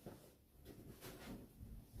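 Near silence: faint background rumble with a few soft clicks.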